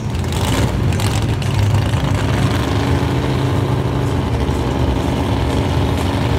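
10.0-litre V8 of a Chevrolet Camaro Z28 drag car idling with a loud, steady low rumble; a steady droning tone joins in about two and a half seconds in.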